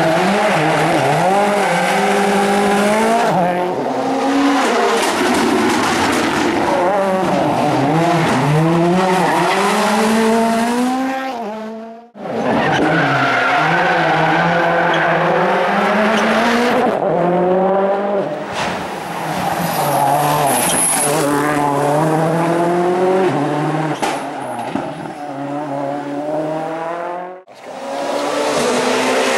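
Rally cars at full speed on a special stage: engines revving hard, the pitch climbing and dropping with each gear change and lift, with tyre squeal and skidding through the corners. Three separate passes are joined by abrupt cuts, about twelve seconds in and near the end.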